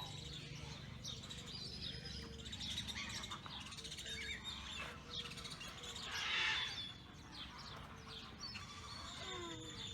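Many small birds chirping and twittering together, with short calls scattered throughout. A soft low note repeats at even intervals underneath.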